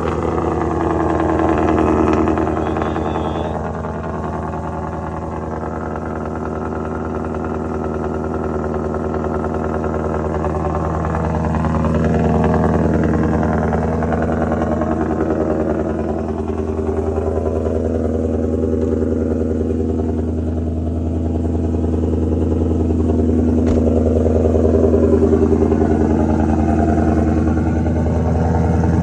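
Ford Mustang Mach 1's V8 idling steadily just after a cold start, heard through a full exhaust, its loudness drifting gently up and down. One short click about two-thirds of the way through.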